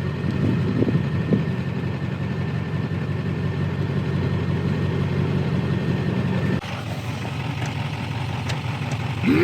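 Pickup truck engine idling steadily, with a brief break in the sound about six and a half seconds in.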